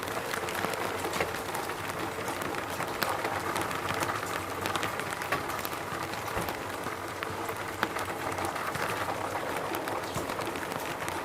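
Steady rain: an even hiss with many separate drops ticking sharply through it.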